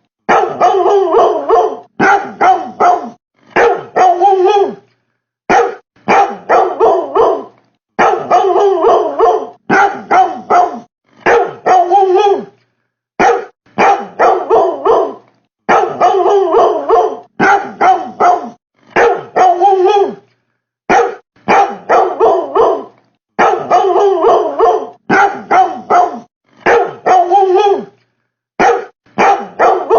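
Barking in quick runs of several barks each, broken by short pauses, repeating evenly over and over like a loop; the barking is credited to a refrigerator.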